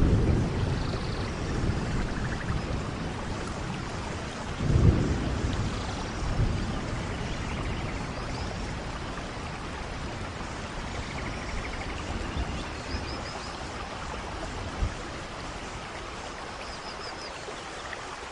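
Steady rain with rolling thunder. The thunder rumbles at the start and loudest about five seconds in, then eases off toward the end.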